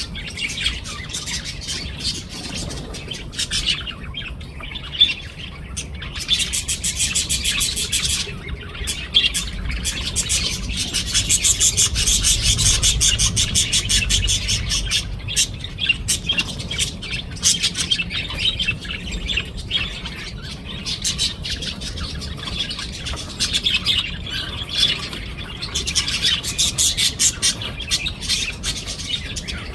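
Pair of budgerigars chattering and warbling: a continuous stream of rapid chirps and squeaks, busiest about a third of the way through.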